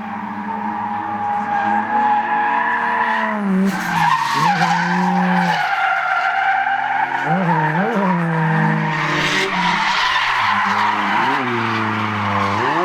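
Drift car's engine revving hard, rising and dropping again and again, with tyres screeching as it slides through a drift. The tyre noise grows loud about three and a half seconds in.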